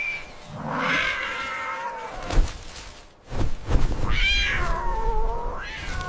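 Two drawn-out, high-pitched animal cries, the first about half a second in and the second at about four seconds.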